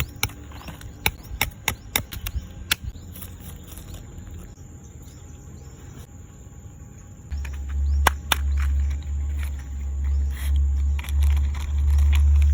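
Dry twigs cracking sharply a dozen or so times in the first few seconds, then a loud, pulsing low rumble starting about seven seconds in.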